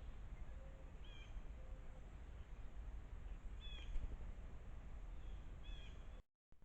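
Faint short bird calls, three brief chirps a couple of seconds apart, over a steady low outdoor rumble. The sound cuts out completely for a moment near the end.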